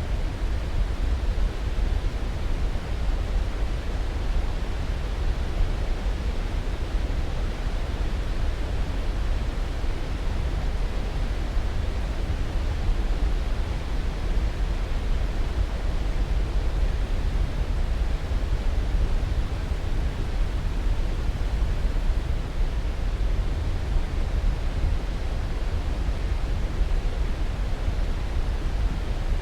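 Steady white noise for sleep: an even, unchanging rushing hiss, heaviest in the bass and thinning toward the treble.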